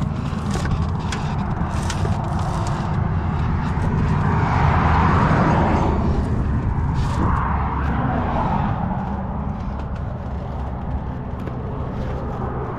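A steady low engine rumble, with several swells of rushing noise and scattered light clicks and knocks.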